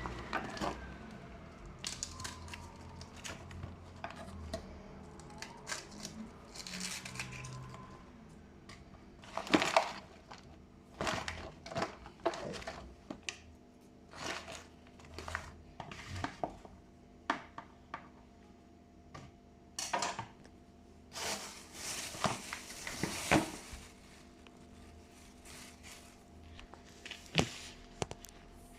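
Kitchen handling sounds: irregular clicks, knocks and scrapes of dishes and utensils, with short stretches of crinkling or rustling, the loudest about ten seconds in and again a little past twenty seconds.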